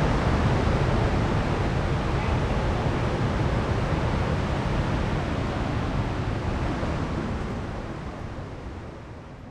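Steady rushing of a waterfall, an even roar of falling water that fades out near the end.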